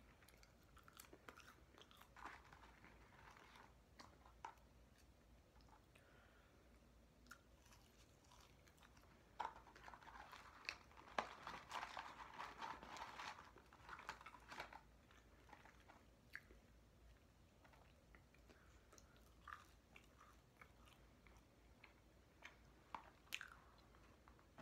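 Quiet, close-up chewing and biting of fast food, with small crunches and mouth clicks. For a few seconds in the middle comes a denser crinkling and crackling as food is taken from the paper fry carton and bag.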